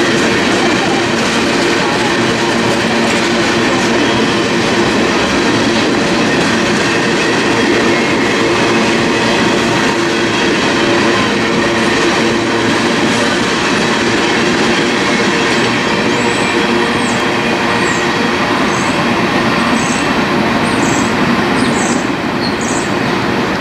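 Freight train of tank cars rolling past, a steady loud rumble and rattle of steel wheels on rail. Over the last several seconds it is joined by short high squeals about once a second.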